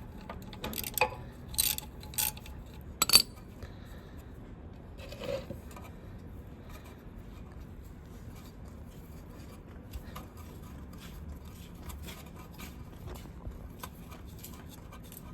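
Metal parts and tools being handled: several sharp clinks and knocks in the first few seconds, the loudest a little after three seconds in, then only faint scattered ticks.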